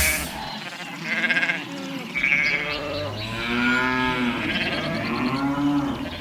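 Farm animals bleating: several separate calls, the longest a wavering bleat about three to four and a half seconds in.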